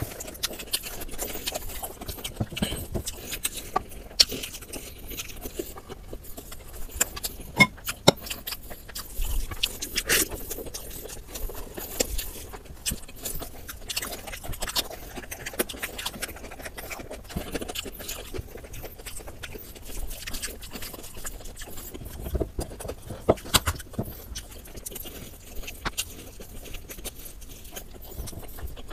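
Close-miked eating sounds: chewing and lip-smacking on mouthfuls of biryani rice and chicken eaten by hand, as a dense, irregular run of short mouth clicks and smacks.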